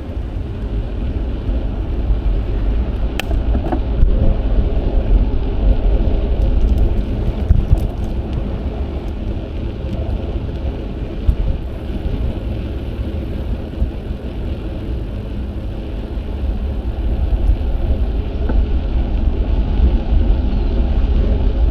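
Wind buffeting an action camera's microphone while cycling: a steady low rumble with a rush of road and tyre noise, and an occasional light click.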